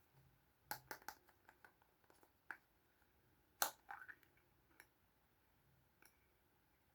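Small plastic toy pieces from Kinder Surprise eggs being handled, giving a few soft, sharp clicks and taps: three quick ones a little under a second in, another a moment later, and a short cluster at about the middle.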